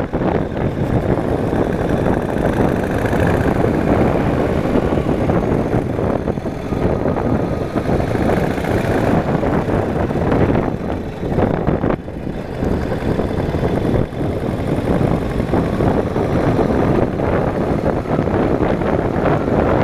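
Yamaha motorcycle riding along, its engine running under a steady rush of wind on the microphone.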